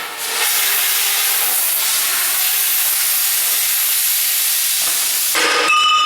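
A loud, steady hiss of rushing air or gas that lasts about five seconds and cuts off near the end, followed by a brief metallic-sounding ring.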